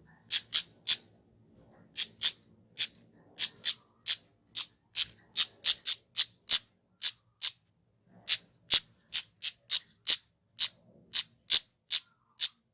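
Flowerpecker (kemade) giving a long series of short, high, sharp call notes, two to three a second, with a brief pause about two-thirds of the way through.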